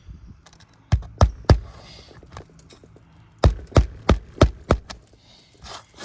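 Sharp knocks on an asphalt-shingle roof: three in quick succession, then after a pause five more at an even pace.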